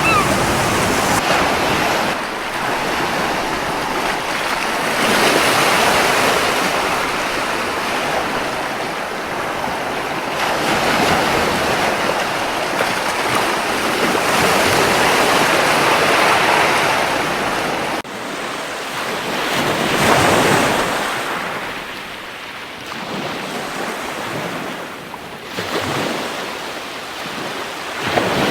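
Ocean surf washing onto a beach, a steady rush that swells and recedes several times.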